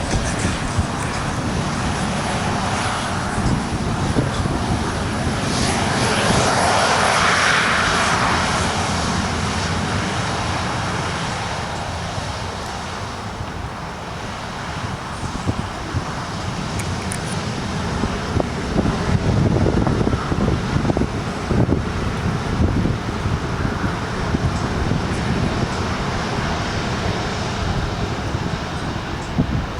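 Jet airliner's engines rushing as it passes, swelling to a peak about seven seconds in and then easing off. Wind buffets the microphone, with low rumbling gusts.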